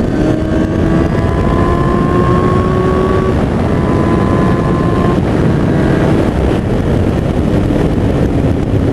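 2003 Kawasaki ZX-6R 636's inline-four engine accelerating up through the gears: its pitch rises, drops at a shift about three seconds in, rises again to another shift about five seconds in, then holds steady. Wind rushes over the microphone throughout.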